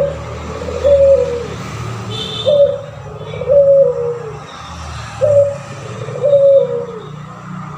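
Puter pelung dove (Barbary dove) cooing in a repeated two-part phrase, a short coo followed by a longer coo that falls at the end, three phrases about two and a half seconds apart.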